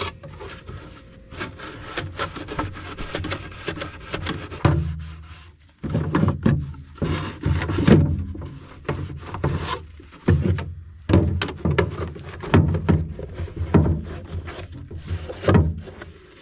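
Scrubbing the inside of a plastic dehumidifier water bucket with dish soap and water, a rubbing scrape that is fainter at first and then comes in strokes about once a second.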